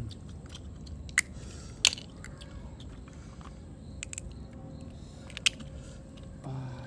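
Close-up chewing and biting of seafood, with a few sharp clicks. A short low hum comes near the end.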